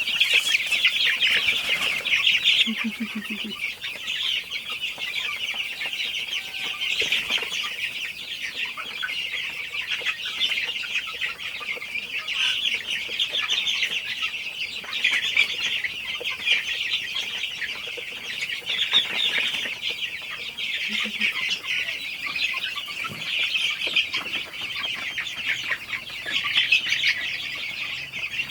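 Many young native chickens peeping together in a dense, continuous high-pitched chorus.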